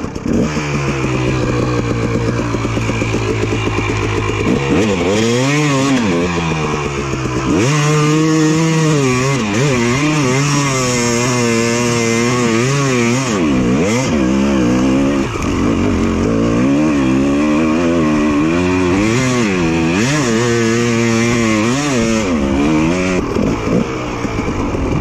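Two-stroke dirt bike engine, held at a steady note for a few seconds, then revved hard over and over, its pitch rising and falling as the throttle is worked under load.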